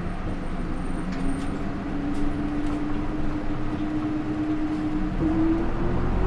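Interior running sound of a Hino Rainbow II bus: its 4HK1-TCH four-cylinder turbo diesel and Aisin automatic transmission under way, with a whine that rises slowly in pitch as the bus gathers speed. About five seconds in the engine gets louder and the whine climbs faster as the bus accelerates harder.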